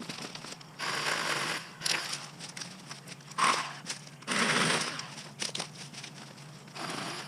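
Dry brush and twigs rustling and crackling in several short bursts, as cut scrub is pulled and handled.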